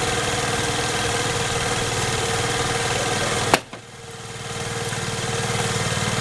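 Four-stroke, two-valve 50cc single-cylinder engine of a 2008 Vespa LX50 scooter idling steadily. A sharp click sounds about three and a half seconds in; the engine sound then drops away and gradually comes back to its steady level.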